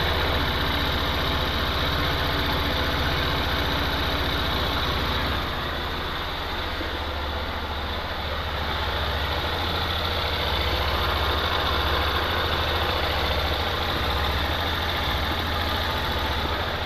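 Yamaha Fazer 250's air-cooled single-cylinder engine idling steadily, a little quieter from about five seconds in. Its light mechanical noise sounds like knocking, which the owner puts down to the ceramic-coated cylinder and says is not real knocking.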